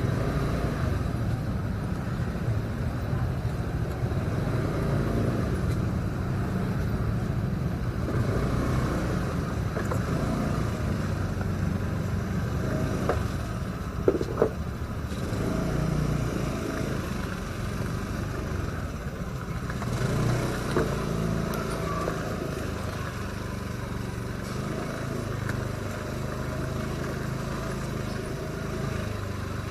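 Motorcycle engine running steadily under way, heard from a rider-mounted camera, with road and wind noise. Two brief sharp sounds stand out about halfway through.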